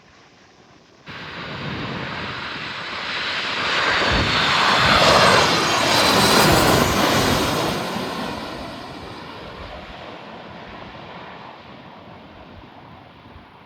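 Jet airliner's engines passing close by: the noise starts abruptly about a second in, swells to a peak around five to seven seconds with a sweeping, falling whine as it goes past, then fades away.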